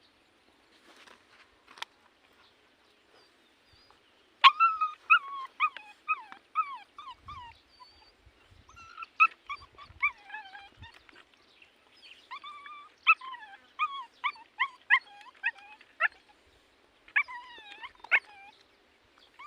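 A dog whimpering in quick runs of short, high whines that bend in pitch. They start about four seconds in, pause briefly a few times, and a last run comes near the end.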